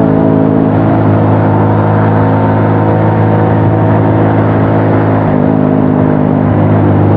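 TVS XL100 moped's single-cylinder four-stroke engine running steadily at cruising speed, with road and wind hiss underneath; the engine note shifts slightly about five seconds in.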